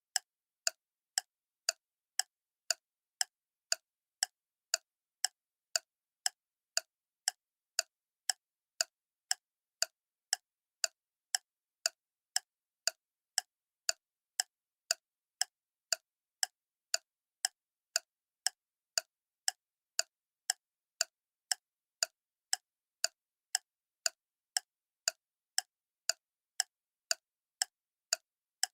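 Clock ticking: sharp, even ticks at about two a second, with silence between them.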